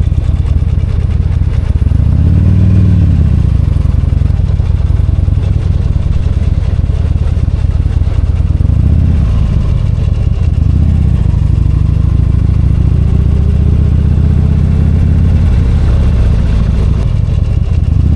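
V-twin motorcycle engine running under way, with short rises and falls in revs about two seconds in and again around nine and eleven seconds, then a long, gradual climb in revs as it accelerates.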